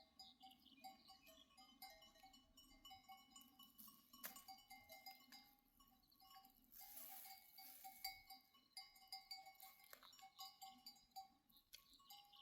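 Faint, irregular tinkling of bells on a grazing flock of sheep and goats, several bell tones sounding on and off. A short hiss comes about seven seconds in.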